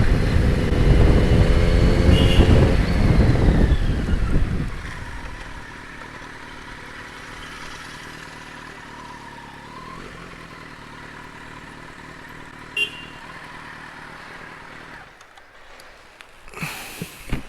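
Motorcycle engine and rushing wind while riding, loud for the first four seconds or so, with the engine pitch falling. It then settles into a much quieter, steady running sound.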